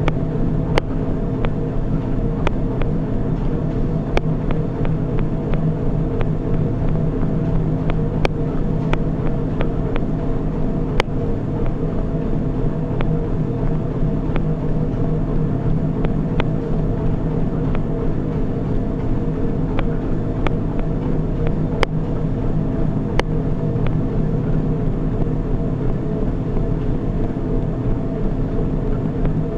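Treadmill motor and belt running with a steady, even hum, broken by scattered sharp clicks at irregular intervals.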